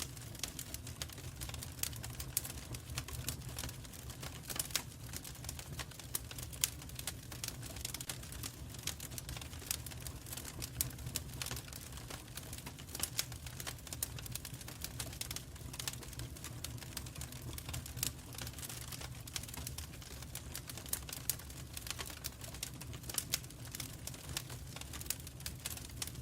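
Wood fire in a fireplace crackling, with dense irregular pops and snaps over a steady low rumble.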